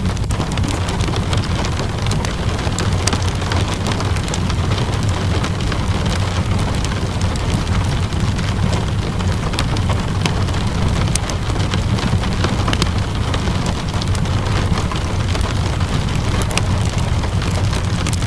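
Steady rain with a low, even rumble underneath, and scattered sharp crackles and pops from a burning wood fire.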